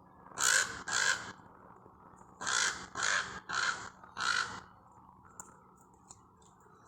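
Crows cawing: two harsh caws, a pause, then four more. These are agitated mobbing calls aimed at a squirrel.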